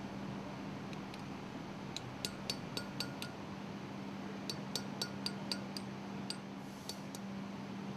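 Light, ringing metallic clicks of hand tools working on the valve's metal parts, coming in two runs of about four a second with a few stray clicks near the end, over a steady low hum.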